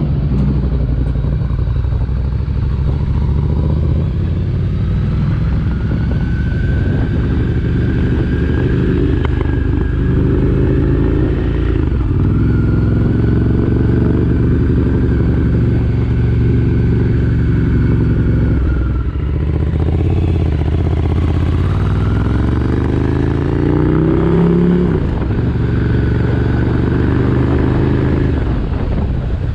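A 2019 Ducati Desert Sled's air-cooled 803 cc L-twin running through a Competition Werkes aftermarket exhaust. The engine note holds steady for long stretches, climbs in pitch over about five seconds around two-thirds of the way through, then drops suddenly.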